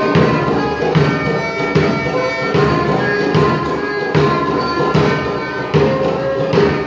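Traditional Manipuri Lai Haraoba dance music: a sustained melody line over a steady percussion beat, with a stroke about every 0.8 seconds.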